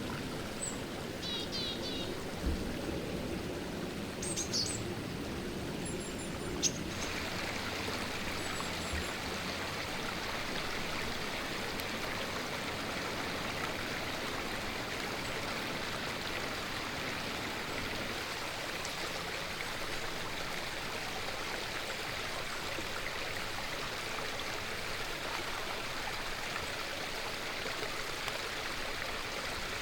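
Steady rush of flowing stream water. A few short high bird chirps and a brief trill come in the first several seconds, and about seven seconds in the water sound turns brighter and fuller.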